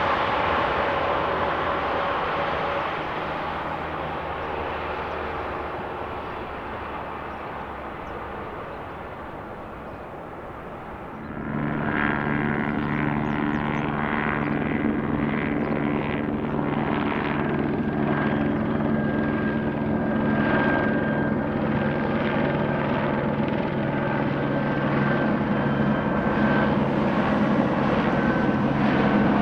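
Aircraft noise fading away over the first ten seconds or so. About eleven seconds in it switches suddenly to a loud, steady aircraft engine running close by, with a low hum and a fast pulsing beat.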